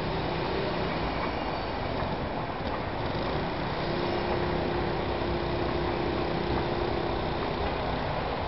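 A passenger train running across a masonry railway viaduct, mixed with steady road traffic noise. A steady droning tone comes in about four seconds in and fades after about three and a half seconds.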